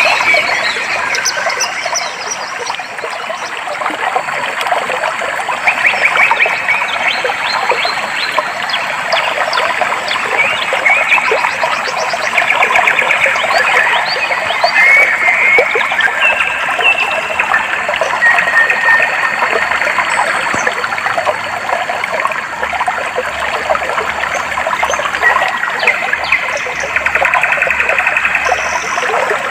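Clear stream water trickling and flowing steadily, with birds chirping and giving short rapid trills over it several times.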